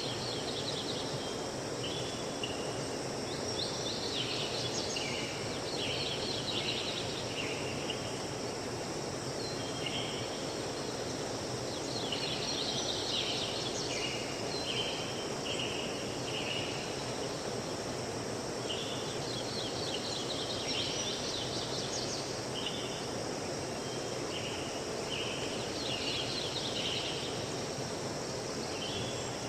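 River stream flowing steadily with a constant rushing, while songbirds sing in short, high chirping phrases that come and go every few seconds.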